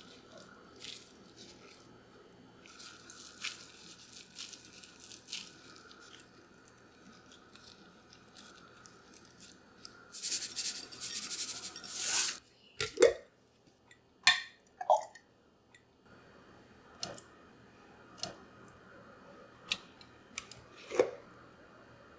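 Small handling noises, clicks and light knocks of objects being moved. About ten seconds in comes a loud two-second rustle like packaging being torn or crinkled, then a few sharp knocks.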